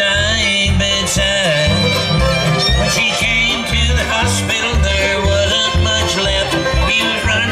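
Live bluegrass band playing an instrumental break: fiddle and banjo over guitar and a steady upright-bass pulse.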